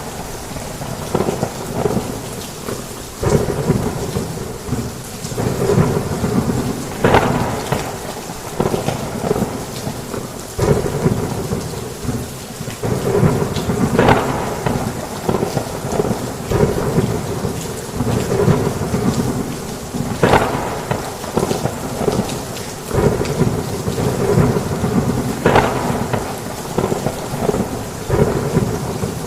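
Heavy rain falling steadily with thunder rumbling and cracking, sharp crackles rising out of the downpour every few seconds.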